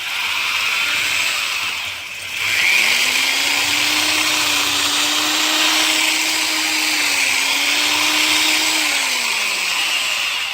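Electric drill with a cheap bit grinding into a concrete wall to cut a cavity. It eases briefly about two seconds in, then runs steadily, its motor pitch dipping once and winding down just before it stops near the end.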